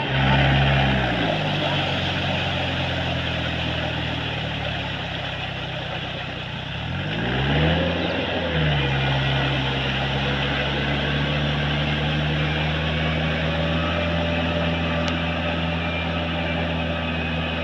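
Tractor engine running hard, revving up at the start and then falling back. About seven seconds in it dips and revs up again, then runs steadily at a constant speed.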